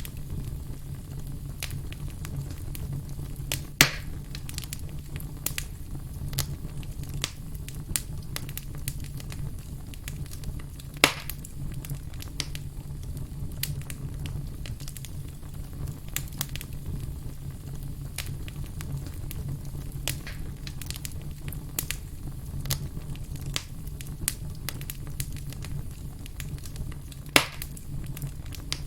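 Wood campfire crackling, with frequent small snaps over a steady low rumble of the flames and three louder pops: about four seconds in, about eleven seconds in, and near the end.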